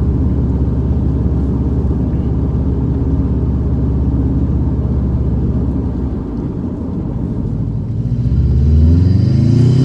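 2007 Subaru STI's turbocharged 2.5-litre flat-four engine droning steadily while driving, heard from inside the cabin. It eases off around six seconds in, then revs up hard under full throttle from about eight seconds, its pitch rising.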